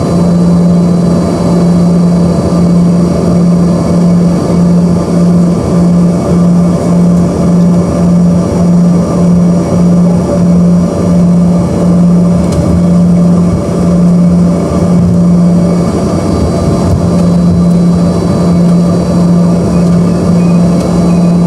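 Loud steady drone of the Embraer ERJ-145's rear-mounted Rolls-Royce AE3007 turbofan engines heard inside the passenger cabin, a low hum that throbs at a regular rate over a layer of higher steady whines and airflow hiss.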